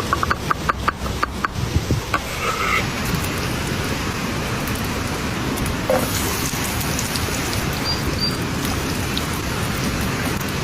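Eggs frying in a pan, a steady sizzling hiss, with a quick run of about eight light clicks or taps in the first second and a half.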